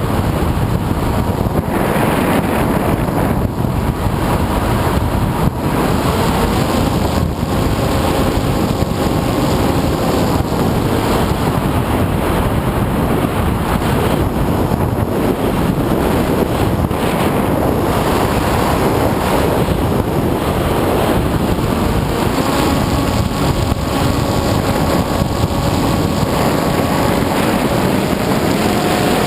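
Electric motor and propeller of an FPV model aircraft, heard from onboard under heavy wind rush. The motor's faint whine holds steady, then steps up in pitch with throttle about two-thirds in and again near the end.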